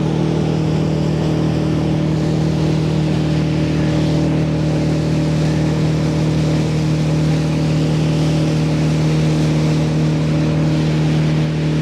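Boat engine running at a steady cruising speed, its even hum over a broad rush of wind and water.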